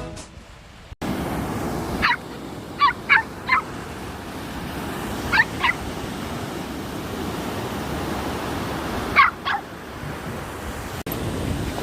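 A small dog giving short high-pitched yips in little clusters over a steady rush of surf and wind.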